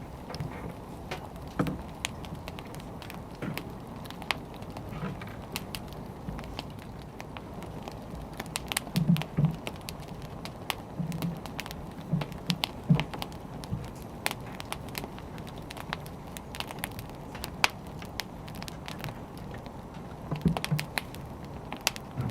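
Wood fire burning, with a steady low rumble of flame and irregular crackles and pops of burning logs, a few louder pops in clusters.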